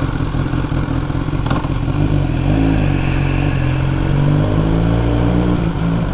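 BMW S1000R's inline-four engine running on the move, its pitch stepping up about two seconds in and then holding steady. A single short click comes just before that.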